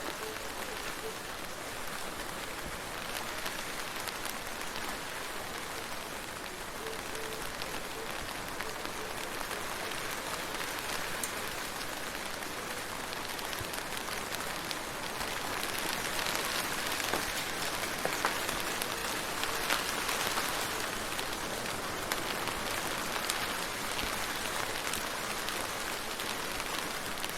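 Steady rain falling, with the ticks of individual drops heard through it; it grows a little heavier about halfway through.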